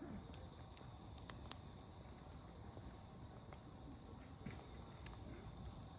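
Faint campfire crackle, with a few sharp pops from the burning firewood, over steady insect chirping that pulses about four times a second.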